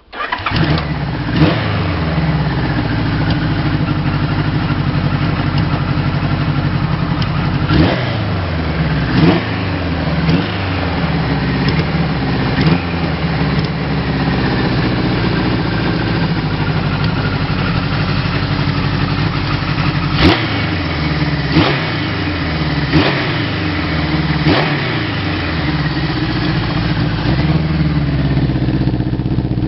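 Kawasaki KZ1000A2's air-cooled inline-four engine idling, with repeated short throttle blips every few seconds that rise in pitch and settle back to idle. The sound comes in suddenly at the start.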